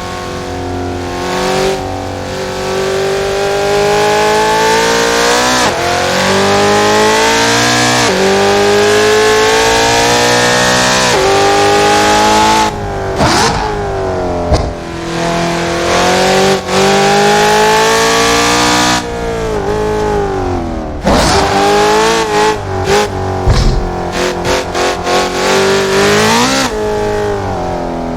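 Car engine pulling hard through the gears, its pitch climbing steadily and dropping sharply at each quick upshift. About two-thirds through the driver lifts off, then a series of short throttle stabs and downshifts follows near the end.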